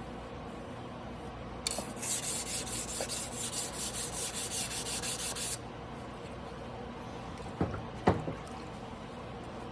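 Tojiro Damascus blue-steel yanagiba blade scraping back and forth on a whetstone in hand sharpening, about four quick strokes a second for roughly four seconds. Then two short knocks.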